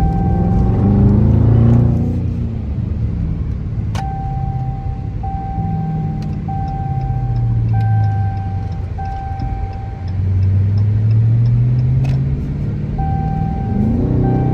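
Straight-piped Dodge Charger R/T's 5.7 HEMI V8 exhaust while driving, its note rising and falling several times as the car accelerates and eases off. A steady in-car warning chime repeats in short beeps through part of it.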